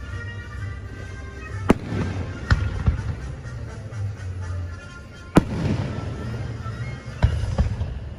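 Aerial fireworks bursting: about half a dozen sharp bangs with rumbling tails, the loudest about five seconds in. Music plays underneath.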